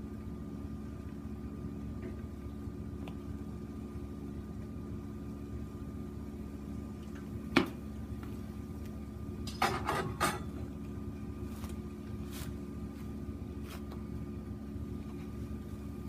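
A steady low hum throughout, with one sharp clack about seven and a half seconds in and a quick run of clacks near ten seconds: hard objects being handled.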